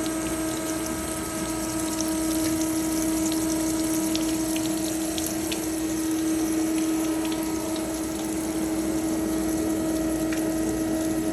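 Kasto Twin A4 automatic horizontal band saw powered up but not yet cutting: its motors and pumps run with a steady hum and an even hiss, with a few faint ticks.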